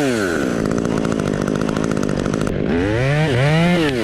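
Two-stroke chainsaw dropping from full revs to idle, idling, then revved up twice in quick succession near the end.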